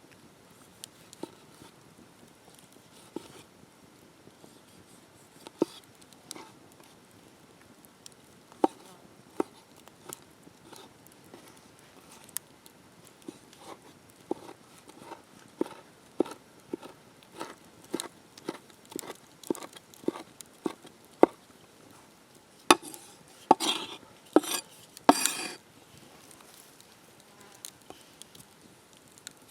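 A series of sharp taps and knocks, sparse at first, then coming about once or twice a second, with a few short scraping rustles near the end.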